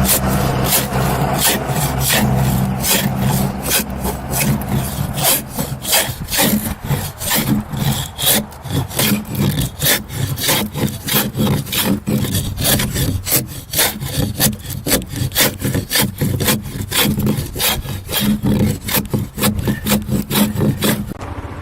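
Scorp shaving the gunwales of a pine dugout canoe: repeated short cutting strokes into the wood, about two a second and quickening after the first few seconds, over a steady low hum.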